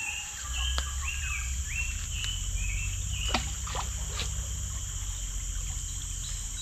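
A bird calls a quick series of short whistled notes during the first three seconds, over a steady high insect drone and the low steady rush of a fast, swollen river. A few sharp clicks fall among the notes.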